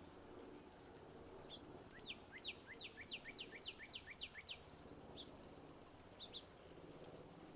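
Wilson's warbler singing: a run of about ten quick down-slurred notes, speeding up, ending in a faster, higher chatter, over a faint steady background hiss.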